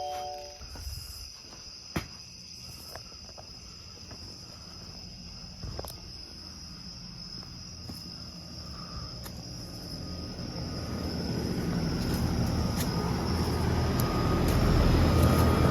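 Crickets chirping steadily in a continuous high trill. A doorbell chime dies away in the first half-second. Over the last several seconds a low rumbling noise grows steadily louder.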